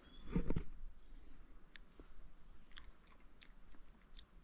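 Faint summer field ambience: a thin, steady, high insect trill, with a short soft noise in the first half-second and a few light clicks.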